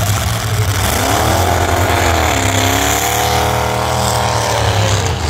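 Engines of full-size demolition derby cars running together in a steady low drone. From about a second in, one engine revs up and down for several seconds under load, then drops back near the end.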